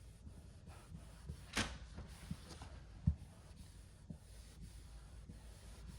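Light hand-working sounds on a panel. There is a single brief rub about a second and a half in and a few small, sharp knocks, the sharpest around three seconds in.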